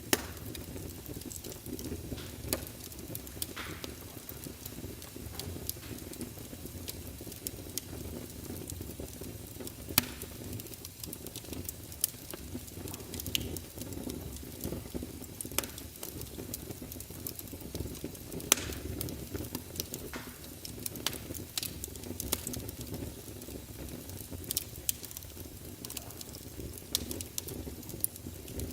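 Fireplace fire crackling and popping over a steady low rumble of flames. Irregular small crackles run throughout, and a few sharper pops stand out: one right at the start, one about a third of the way in, and one about two-thirds through.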